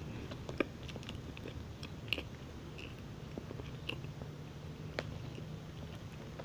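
Close-miked chewing of a moist chocolate chip muffin: soft mouth sounds with scattered small clicks, a few of them sharper.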